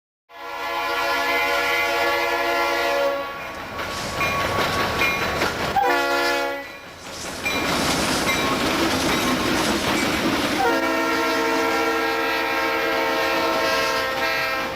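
Freight train's diesel locomotive sounding its multi-tone air horn as it passes: a long blast, a short blast about six seconds in, then another long blast near the end, with the rumble and clatter of the train rolling by in between.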